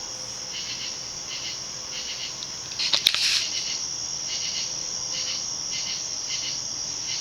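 Crickets chirping steadily in a rapid pulsing rhythm, with a short burst of noise about three seconds in.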